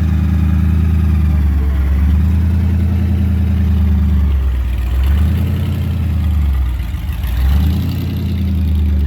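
Car engine idling with a low, steady rumble, its pitch dipping and coming back up a few times.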